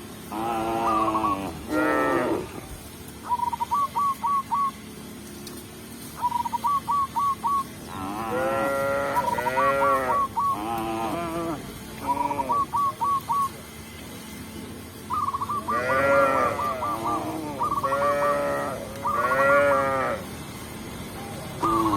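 Cows mooing: several long calls that rise and fall in pitch, in three bouts a few seconds apart. Between the bouts, quick runs of four or five short high notes repeat every few seconds.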